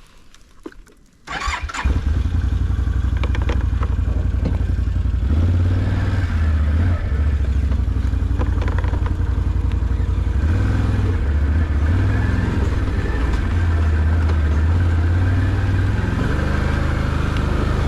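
An off-road vehicle's engine starts about a second in, then runs at a steady low idle, lifting slightly in speed a few times.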